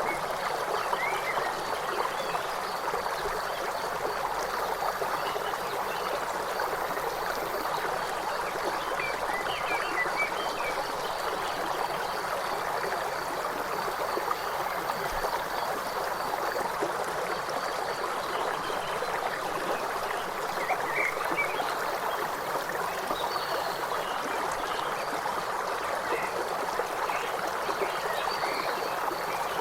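A river flowing steadily, an even rush of water, with faint short animal calls scattered over it.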